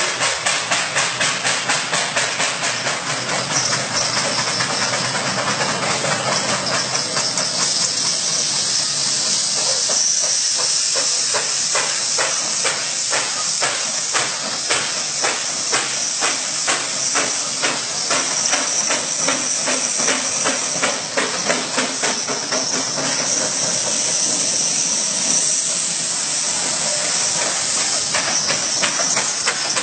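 Steam-powered truck running, its steam engine chuffing in an even rhythm of a few beats a second over a continuous high hiss of steam.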